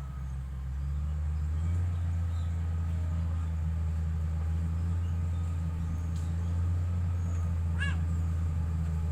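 Heavy road-construction machine's diesel engine running steadily, a low, even hum.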